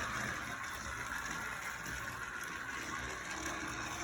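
Battery-powered Thomas & Friends toy locomotive running along plastic track, its small motor giving a steady whirr.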